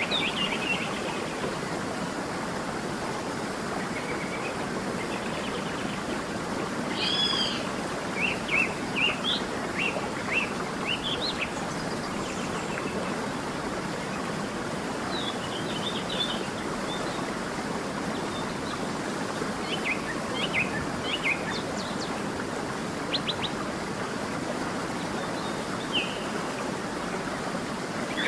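Wild birds chirping and calling in short, scattered phrases over a steady rushing noise.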